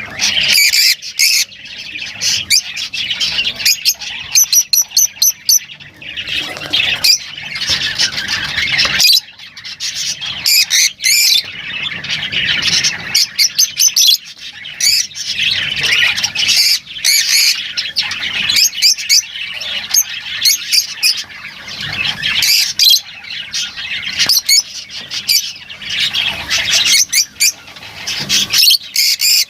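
Lovebirds chattering and squawking in a continuous stream of shrill, rapid calls that overlap one another.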